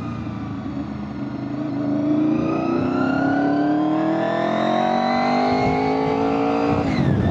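Honda VFR800FI's V4 engine pulling steadily up through the revs as the motorcycle accelerates, then dropping sharply near the end as if at a gear change. Wind noise on the microphone runs underneath.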